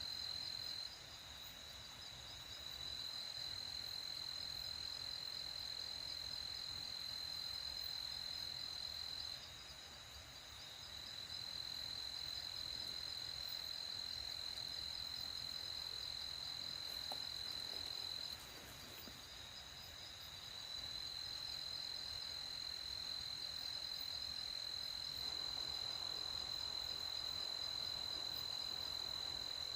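Crickets trilling in a steady high-pitched night chorus, the loudest trill dipping briefly a few times. A soft hiss comes up underneath near the end.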